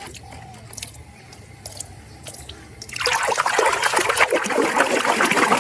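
A few light clicks and taps of a plastic toy being handled, then about three seconds in, water starts running and splashing over it as it is rinsed clean.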